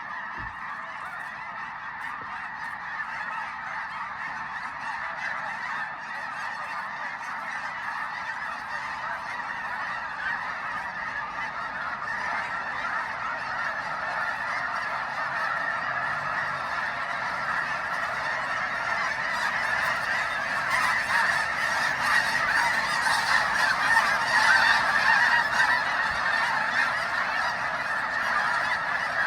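A large flock of geese honking together in a dense, continuous chorus that grows steadily louder, loudest in the last third.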